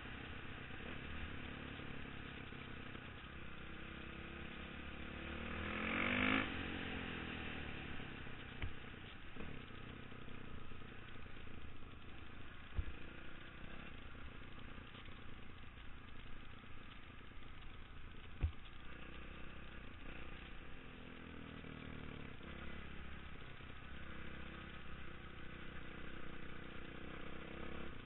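Dirt bike engine running under way, its pitch rising and falling with the throttle, with one loud rev about six seconds in, heard from a helmet-mounted camera. Two sharp knocks cut through partway along.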